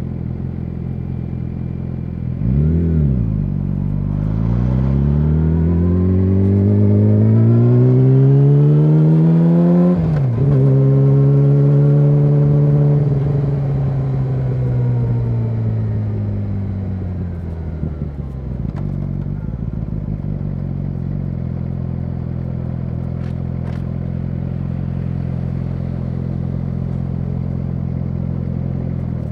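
Yamaha YZF-R6 inline-four engine through an SC Project SC1-R exhaust, idling, then a short rev blip. The engine note then climbs for about six seconds, drops sharply, holds and slowly falls back to a steady idle.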